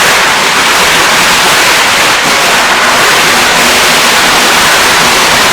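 A loud, steady rushing hiss with no bangs or breaks in it.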